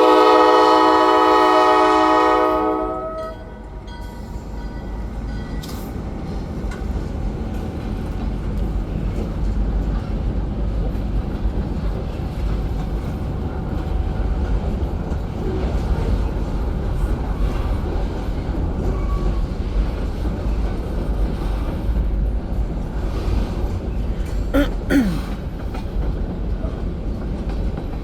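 Diesel locomotive's air horn sounding a loud chord that cuts off about three seconds in, as the train approaches the road crossing. Then the locomotive and cars rumble steadily past, with a short falling squeal near the end.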